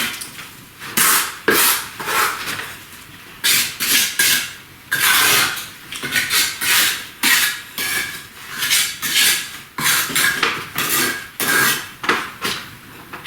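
Repeated scraping and clinking strokes of a metal tool against a hard surface, irregular, about one or two a second.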